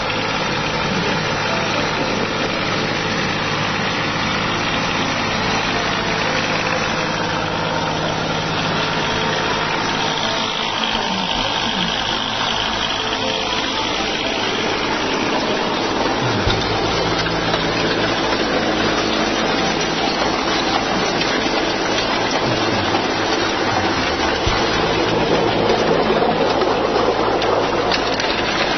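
Kubota L245 tractor's diesel engine running steadily with a rotary tiller, its pitch dipping about halfway through and again near the end.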